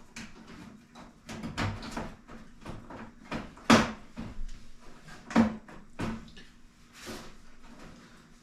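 Casing pieces of a diesel heater being handled and fitted together: a series of irregular knocks and clunks, with two louder clunks in the middle.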